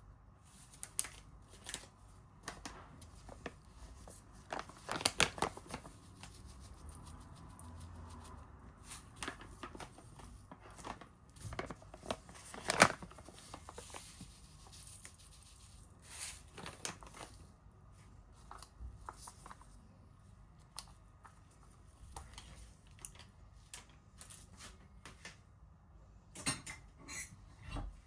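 Kitchen handling noises during food preparation: scattered clicks, taps and rustling, denser about five seconds in and again near the end, with one sharp knock about thirteen seconds in.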